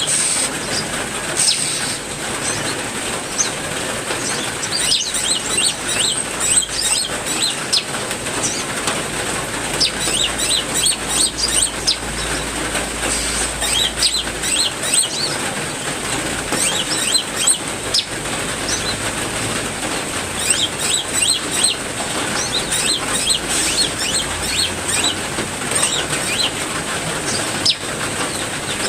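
Heavy rain falling steadily, with several small songbirds chirping and calling in quick, short notes throughout, and a steady high-pitched tone running under them.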